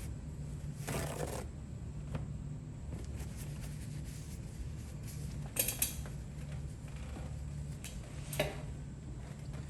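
A few light metallic clicks and clinks of small steel ratchet parts being handled during reassembly, over a steady low hum. One comes about a second in, a couple more just past halfway, and one near the end.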